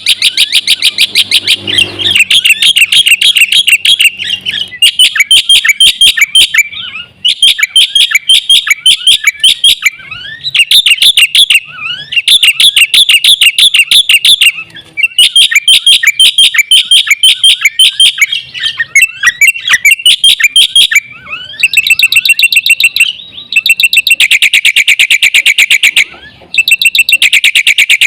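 Black-winged myna (jalak putih) singing in full, loud song: very fast runs of repeated high, chattering notes in bouts of one to three seconds, broken by short pauses.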